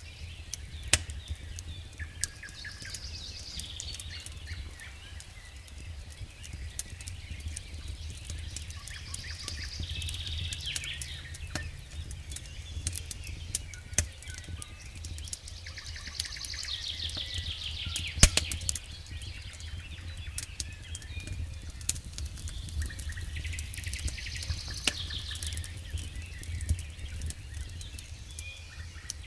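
Wood campfire crackling, with frequent sharp pops, the loudest about two-thirds of the way through, over a low steady rumble. Songbirds sing short phrases four times.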